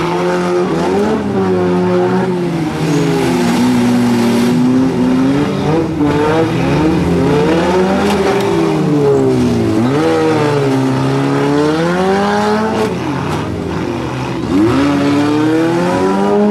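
Several four-cylinder demolition derby cars' engines revving, their pitch rising and falling over and over as the cars accelerate and back off in the mud, with a few sharp knocks of impacts among them.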